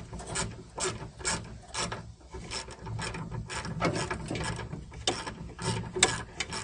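Socket ratchet clicking in a run of short strokes as a 7/16 door bolt is turned out, the clicks coming faster in the second half.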